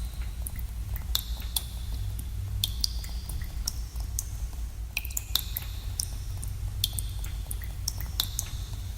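Water drops falling into pools in a cave, an irregular patter of sharp plinks, several a second, many ringing briefly at a high pitch. A steady low rumble runs underneath.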